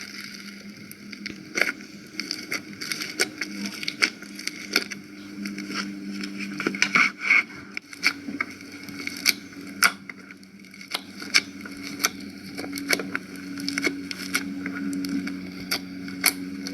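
Slime squeezed and worked by hand, giving many irregular sharp clicks and pops of trapped air.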